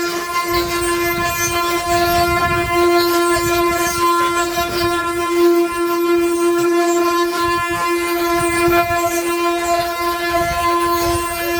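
Wooden ox cart (carro de boi) singing as it is pulled: the turning wooden axle gives a steady, loud droning whine on one held pitch with many overtones. A low, uneven rumble comes and goes underneath.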